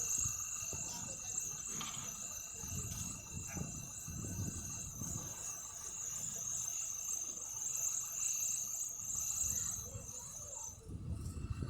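Insects, crickets or similar, chirring in a steady high-pitched buzz that stops suddenly near the end, over an uneven low rumble.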